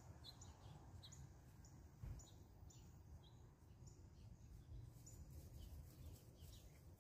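Faint backyard bird chirping: short high chirps repeated about twice a second, thinning out in the second half, over a low steady rumble.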